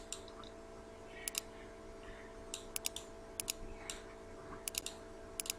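Scattered sharp clicks at a computer, keys or mouse buttons, about a dozen in all, many in quick pairs, over a faint steady hum.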